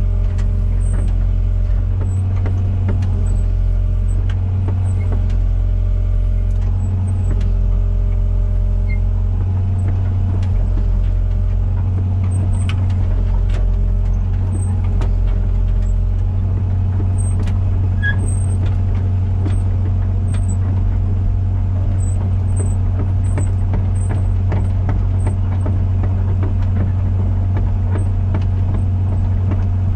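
Komatsu PC120-6 excavator's diesel engine running steadily, with its hydraulic tones shifting every few seconds as the controls are worked. Scattered light clicks and knocks sound throughout.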